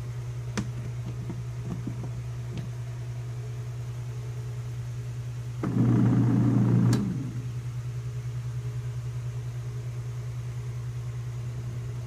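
YOKO mini twin-tub washing machine's spin-dryer motor humming steadily. About six seconds in, a louder buzz lasts a little over a second as the dryer's timer knob is turned.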